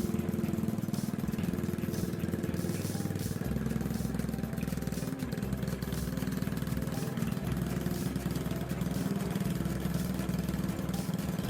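Motorcycle engine running steadily at a constant speed, driving a homemade water pump.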